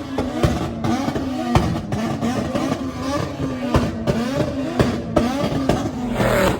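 Dodge Charger engine revved hard again and again, its pitch rising and falling about once a second, with sharp exhaust pops in between.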